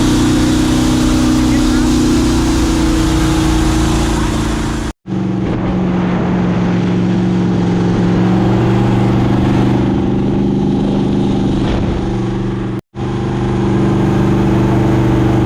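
Mini jet boat's boosted engine running hard at speed, a steady engine drone that breaks off abruptly twice, about five and thirteen seconds in, running at a lower pitch between the breaks.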